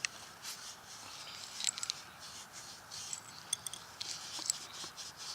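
Light scraping and rubbing against metal with a few sharp metallic clicks, from hand work on a truck driveshaft's U-joint yoke; quick short strokes near the end.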